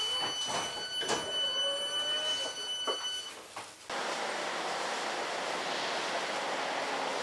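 Train interior sound: a steady high-pitched tone with a few knocks and clunks and a short rising whine. About four seconds in it gives way to a steady, even rushing hiss of outdoor noise.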